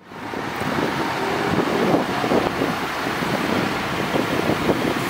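Transport for Wales Class 197 diesel multiple unit running into the platform: steady, loud engine and wheel-on-rail noise as it approaches and passes close by.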